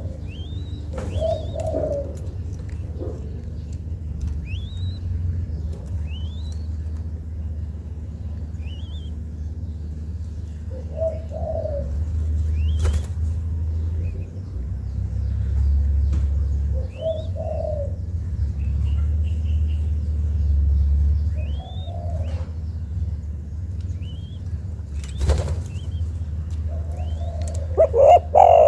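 Young spotted dove cooing in short phrases about every five seconds, the loudest near the end, over a steady low hum. Thin rising chirps come from another small bird, and two sharp clicks fall about halfway through and near the end.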